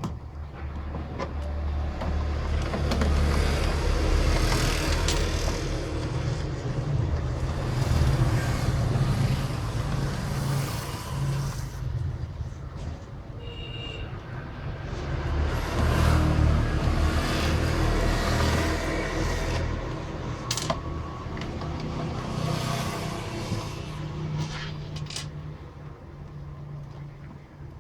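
Passing road traffic: a low rumble that swells and fades twice, with a brief high tone about halfway and a sharp click a little later.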